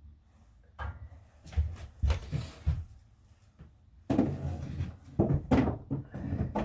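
A run of knocks and clunks from metal parts being handled: a few about a second in, then a busier cluster from about four seconds.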